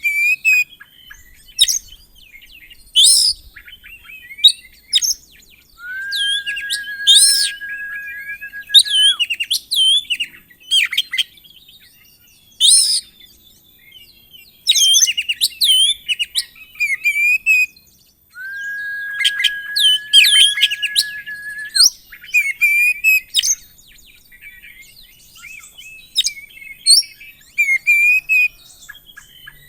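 An oriental magpie-robin singing a loud, varied song of sharp chirps and quick whistled sweeps. Twice it holds one long, steady whistle for about three seconds.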